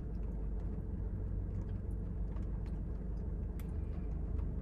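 A car engine idling, heard inside the cabin as a steady low rumble, with a few faint clicks.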